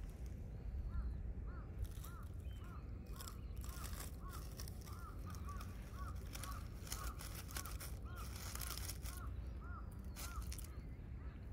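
A bird calling a long, even series of short rising-and-falling notes, about three a second, starting about a second in and stopping near the end. Faint rustles and a low steady rumble lie underneath.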